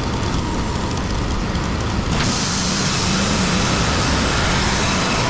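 WoodMizer LT35 band sawmill running and sawing a hemlock flitch, a loud steady mechanical noise that turns brighter and a little louder about two seconds in.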